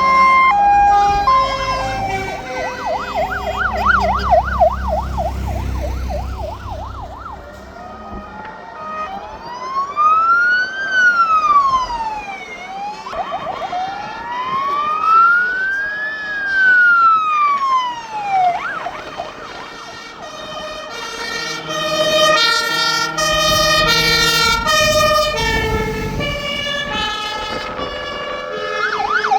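Sirens of fire engines driving past in a procession: first a fast warbling yelp, then two slow rising-and-falling wails, then several two-tone sirens stepping between high and low notes at once, over the rumble of the trucks' engines as they pass.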